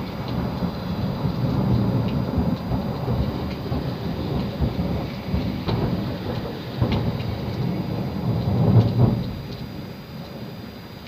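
Thunder rumbling and rolling over steady rain, swelling loudest about nine seconds in, then dying away.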